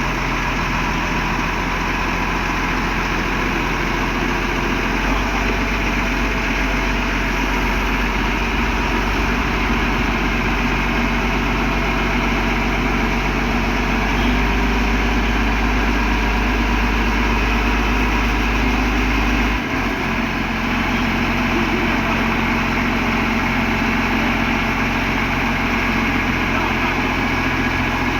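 Heavy diesel machinery of an asphalt paving crew running steadily, a low engine drone; the deepest engine note drops away about two-thirds of the way through.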